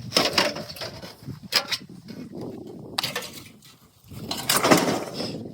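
Knocking, clattering and scraping from work on an old doghouse being pulled apart, with several sharp knocks and the loudest, longest scrape near the end.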